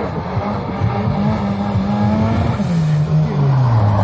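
Škoda 100 rally car's engine running at high revs as the car approaches, growing louder; a little under three seconds in, the revs fall away.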